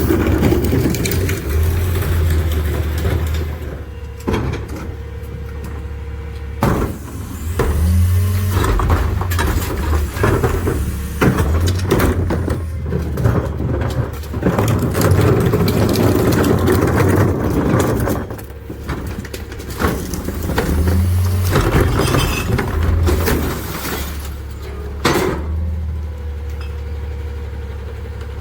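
McNeilus rear-loader garbage truck running, with its engine droning steadily under repeated clattering and crashing of recyclables being tipped into the hopper and packed. The clatter comes in runs, heaviest in the middle of the stretch.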